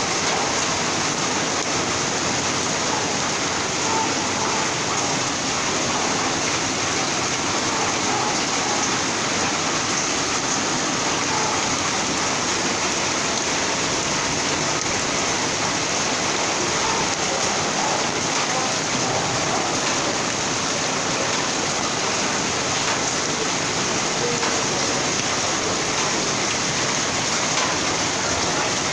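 Heavy rain pouring steadily onto a flooded street: a dense, even hiss of rain on the surface and standing water.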